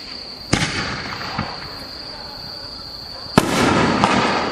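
Aerial firework shells bursting overhead: two sharp bangs about three seconds apart, each trailing off in an echoing crackle, the second one louder.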